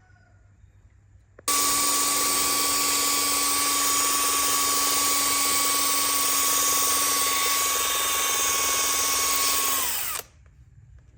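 An electric power tool's motor starts abruptly, runs at a steady high speed for about eight and a half seconds with a constant whine, then is switched off, its pitch dropping briefly as it stops.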